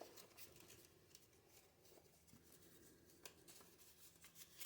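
Near silence: faint, scattered rustles and ticks of sandpaper being handled and folded.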